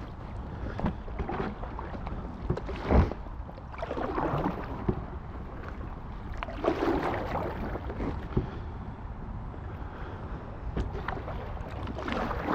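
Paddle strokes splashing and water swishing around an inflatable kayak on a shallow river, coming in irregular swells every second or two over a low wind rumble on the microphone.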